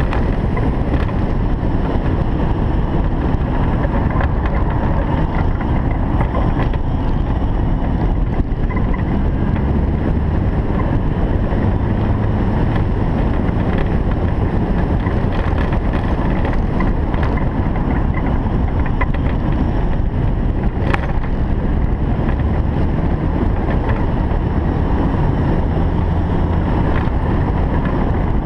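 Single-turbo Toyota Supra's engine running at a steady note, mixed with wind noise on the microphone.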